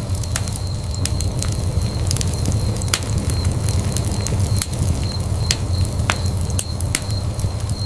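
Wood fire burning in a fireplace, with a steady low rumble of flame and irregular sharp crackles and pops several times a second. A faint steady high tone runs underneath.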